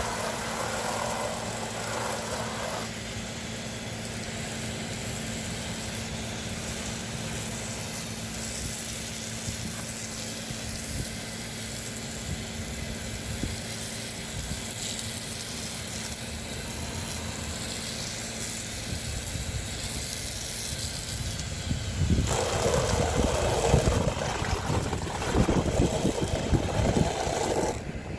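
Pressure washer spraying water against house siding, a steady hiss over a constant low machine hum. About three-quarters of the way through, the spray grows louder and more uneven.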